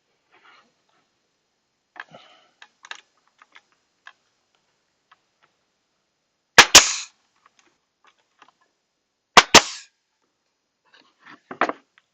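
Two sharp double cracks about three seconds apart, each a pair of snaps in quick succession, with faint clicks and knocks of wood and tools being handled around them.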